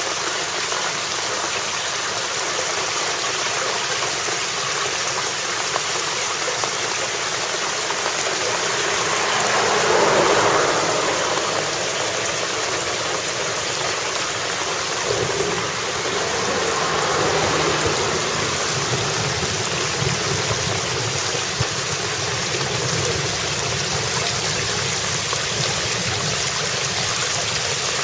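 Heavy cloudburst rain, with rainwater rushing off the road surface into a concrete collecting gutter: a steady hiss of rain and running water. It swells louder twice, about a third of the way in and again just past the middle.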